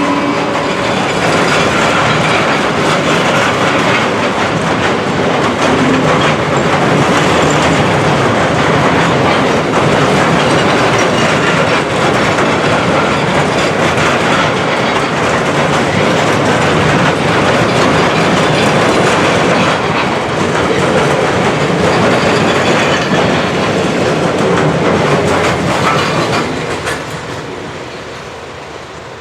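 A train passing close by at speed, wheels clattering over the rail joints in a steady loud rush that dies away near the end as it goes by.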